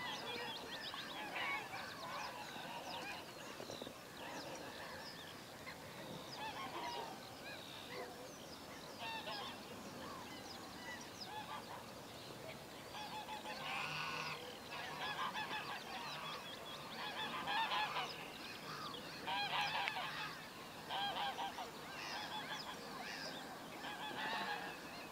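Faint bird calls: scattered short chirps, then louder bursts of repeated calls from about halfway through.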